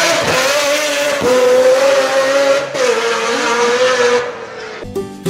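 Tuned car engine revving hard, its pitch held high with a few brief dips, then stopping shortly before the end as guitar music begins.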